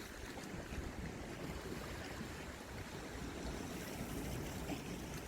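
Steady wind rumbling on the microphone over the wash of the sea.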